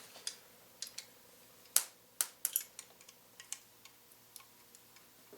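Irregular light metallic clicks and taps of small parts being handled: the brake pedal linkage's pin and washer. The loudest, a quick cluster of three sharp clicks, come about two seconds in.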